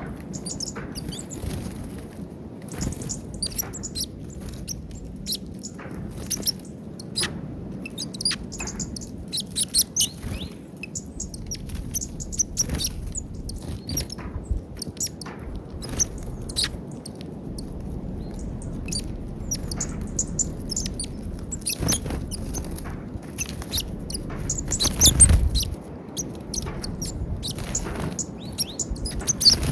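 Small wild birds at a peanut feeder chirping and calling in short, frequent high notes over a steady low background rumble, with a brief louder rush of noise about twenty-five seconds in.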